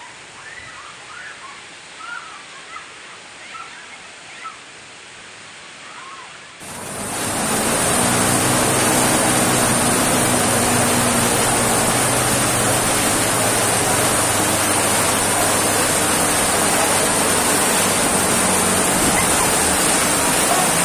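Heavy rain and rushing floodwater: a quieter rush with short high-pitched calls over it, then, about six and a half seconds in, a sudden switch to a loud, steady hiss of pouring water with a faint low hum beneath it.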